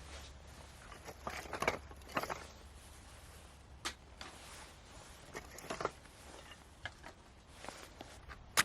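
Handling noises: scattered soft knocks and rustles, with a sharp click near the end.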